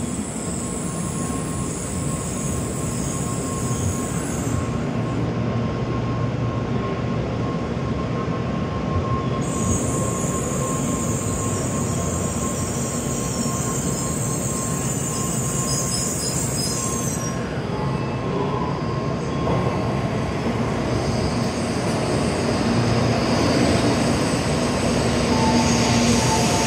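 N700A Shinkansen bullet train moving past along the platform, pulling out and gathering speed. Its running noise grows louder toward the end, with a thin steady tone under it for much of the time.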